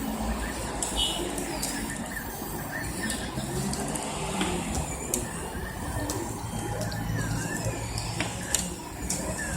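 Stepper motors of a custom-built 3D printer running, with a whine that repeatedly rises and falls in pitch as the axes speed up and slow down, and scattered sharp clicks over a low background rumble.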